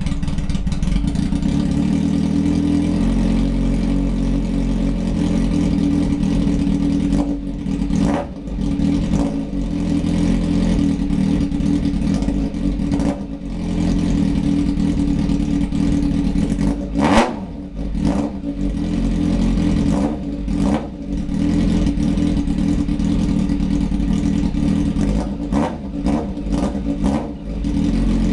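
Yamaha 600 Fazer inline-four motorcycle engine idling through an open Scorpion exhaust, blipped repeatedly with short throttle revs. The loudest rev comes about seventeen seconds in, and a quick cluster of revs comes near the end.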